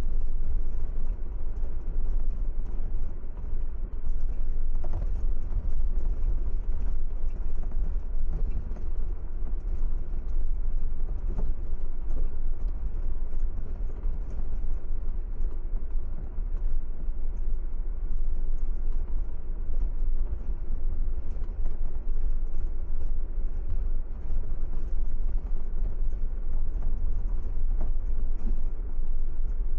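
A car driving along a road: a steady low rumble of engine, tyres and air, with no clear changes.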